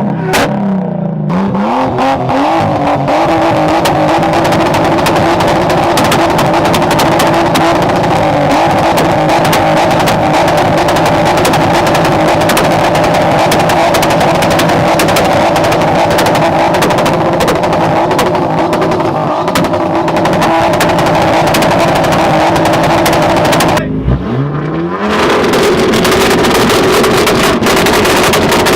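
Car engine pulling hard. The engine note climbs just after a gear change at the start, holds steady at high revs, then dips briefly near the end at a second shift and climbs again.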